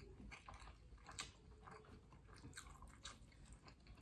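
Faint chewing of rice and eggplant sambal eaten by hand, with small scattered mouth clicks and one slightly louder click about a second in.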